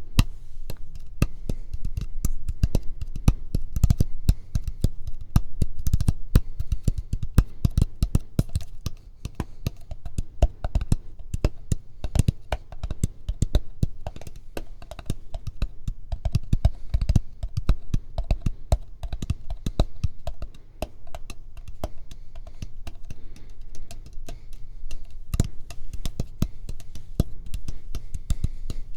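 Rapid ASMR tapping, with many dense, overlapping taps each second in an uneven rhythm, recorded close to the microphone with a heavy low thud under the strongest hits.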